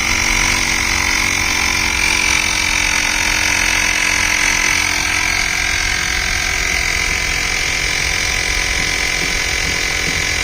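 Xiaomi portable rechargeable tyre inflator's electric air compressor running steadily with a hum and a high whine, pumping a motorcycle tyre up from about 21 psi toward a set 30 psi.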